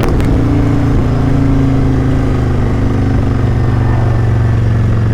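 Kawasaki Vulcan 900's V-twin engine running steadily while the motorcycle rides in traffic, with a sharp click right at the start and the engine note dropping at the very end.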